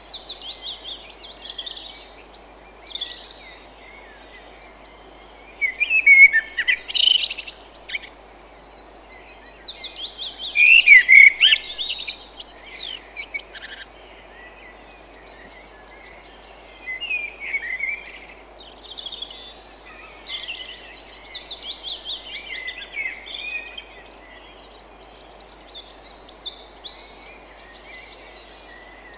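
Several wild birds chirping and singing in overlapping calls, loudest around six and eleven seconds in, over a steady low hiss of forest ambience.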